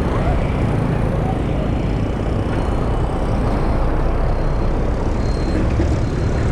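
Motorcycle under way in traffic: a steady engine and road rumble mixed with wind noise on the camera microphone.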